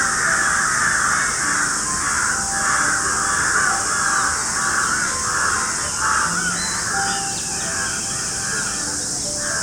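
Crows cawing over and over in a dense run that thins out after about six seconds, over a steady high-pitched hiss.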